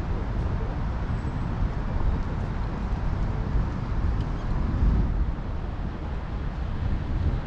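City traffic noise heard from a moving bicycle, with a steady low rumble of wind on the microphone; the noise swells briefly about five seconds in, as of a vehicle passing.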